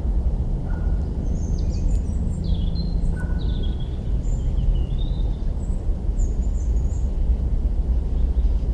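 Small birds chirping and twittering in a run of short calls from about a second in to near the end, over a loud, steady low rumble.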